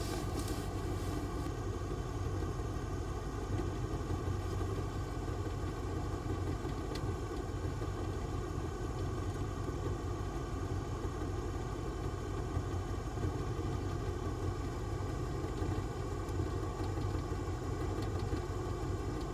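An engine idling steadily: a low, unchanging rumble with a hiss over it.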